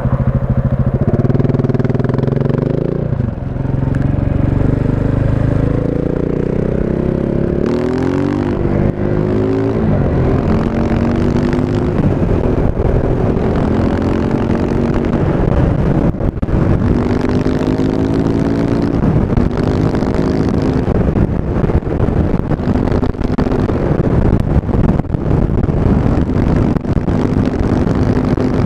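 KTM 690 Enduro's single-cylinder engine through an Akrapovic exhaust, running and pulling up through the revs several times, each rise in pitch broken off and started again, then holding a steadier note near the end.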